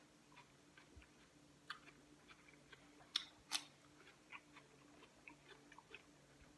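Quiet close-up chewing of cucumber, with scattered wet mouth clicks and a few sharper clicks around the middle.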